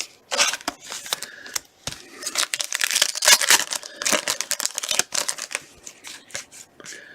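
Trading cards being handled and flipped through by hand: card stock sliding and rubbing, with a quick run of clicks and rustles that is busiest in the middle.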